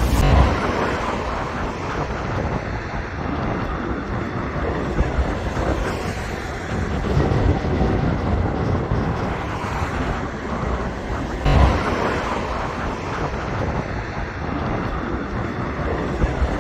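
Electric train running along an elevated viaduct, a steady rumble of wheels on the track. Two short low bumps break through, one right at the start and one about two-thirds of the way through.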